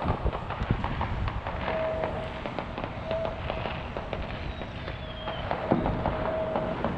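Distant fireworks going off: a scattered run of pops and bangs with crackling, not very loud.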